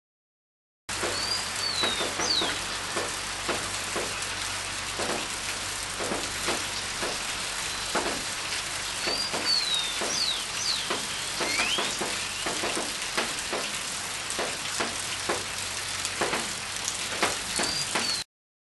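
Steady rain hiss with heavy drops spattering close by. A bird calls in three short runs of high, sliding chirps: near the start, about halfway, and near the end. The sound starts about a second in and cuts off sharply just before the end.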